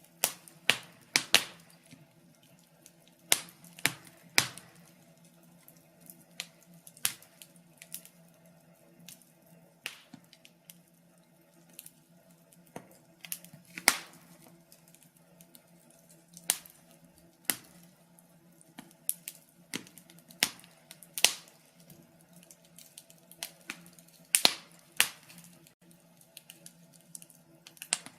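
Wood fire crackling: irregular sharp pops and snaps, a few every couple of seconds and some much louder than others, over a faint steady low hum.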